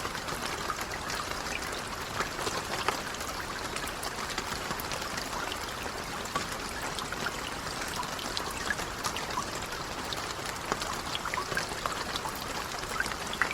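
Light rain falling steadily: an even hiss with many individual drops ticking irregularly through it.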